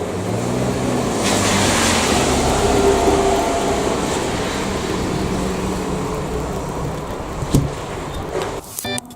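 A motor vehicle running, its sound swelling over the first few seconds and then slowly fading, with one sharp click late on. Guitar music starts just before the end.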